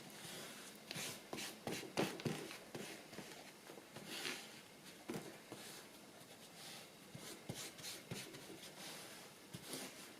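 Quiet handling sounds of paper and fabric being pressed and positioned by hand: soft rustles with scattered light taps and clicks.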